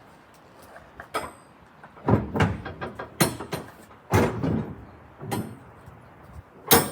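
A series of six knocks and thuds, roughly one a second, several with a deep thump and a short ring; the loudest comes near the end.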